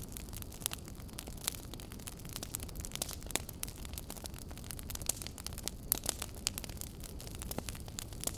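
Wood fire crackling: a steady low rumble of flames with frequent irregular sharp pops and snaps, a few louder ones scattered through.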